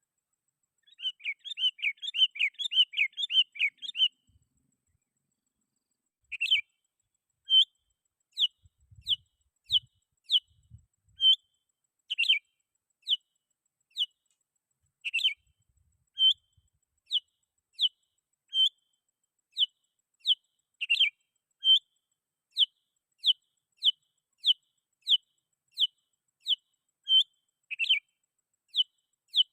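Sooty-headed bulbul calling vigorously: a quick run of warbling notes, then after a short pause a long series of short, sharp call notes about one a second.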